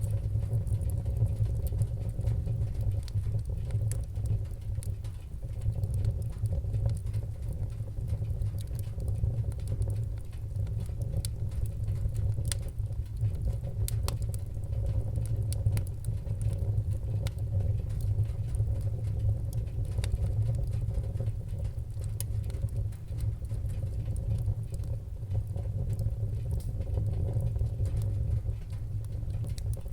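Wood fire crackling, with frequent small pops and snaps over a steady low rumble.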